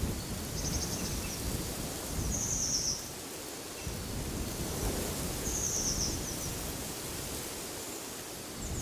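A small bird repeating short, high chirping phrases about every two to three seconds, over steady wind noise with a low rumble.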